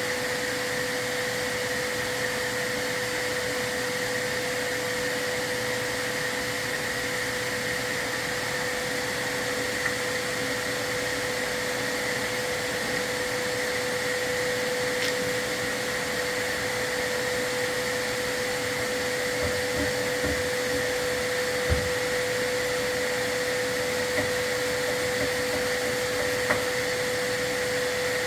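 Vacuum running steadily with a constant whine, the kind of soot vacuum a chimney sweep runs during an interior sweep. A few faint knocks and taps sound over it.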